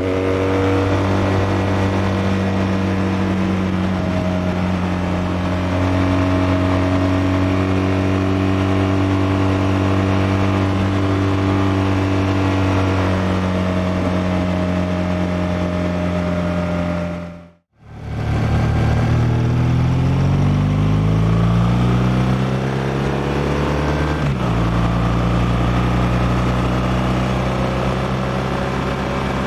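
BMW R1200R's liquid-cooled boxer twin running at steady revs under way. After a brief dip to silence about two-thirds in, it pulls up through the revs, drops in pitch at an upshift, and settles into steady cruising.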